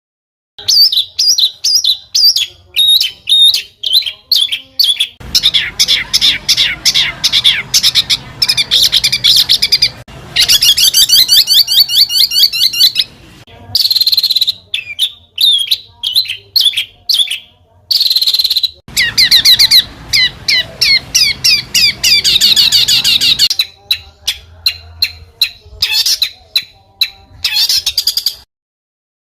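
Songbird singing a fast, dense master song: rapid high chirps and trills of quickly repeated notes, in stretches broken by a few abrupt gaps of silence where the recording is spliced.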